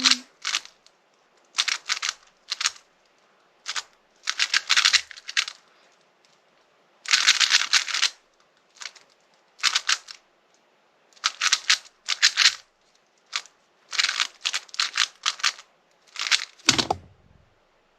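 3x3 speedcube being turned by hand during a solve: quick runs of plastic layer-turning clicks in bursts, with short pauses between them. There is a single low thump near the end, as the solve finishes.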